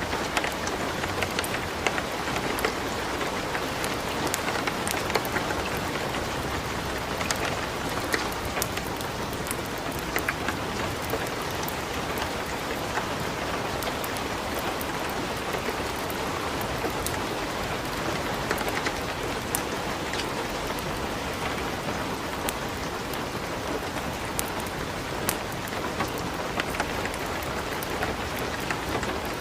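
Steady light rain falling, mixed with a wood fire crackling in a fireplace, with frequent small sharp pops and snaps scattered throughout.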